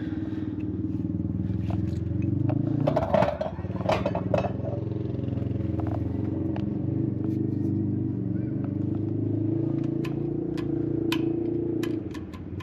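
An engine running steadily, with clattering and clicks about three seconds in; the drone drops off near the end.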